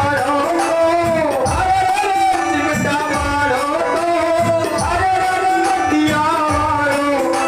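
A Hindi devotional folk song, a singer's voice carrying a melody over a steady drum accompaniment.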